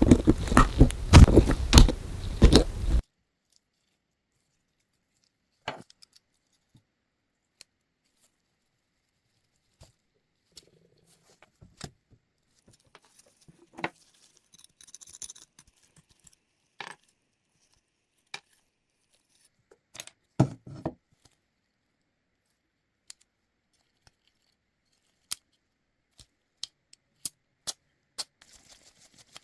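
A loud, dense noise stops abruptly about three seconds in. After that come scattered short clicks and taps, with dead silence between them and a louder double knock about twenty seconds in.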